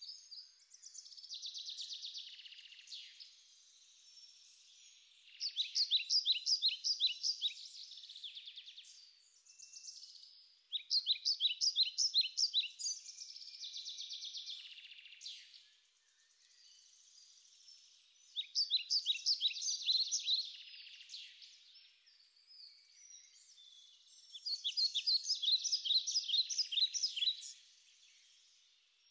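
Birdsong: a songbird sings a phrase of quick, high repeated notes about every five to seven seconds, with softer twittering between phrases.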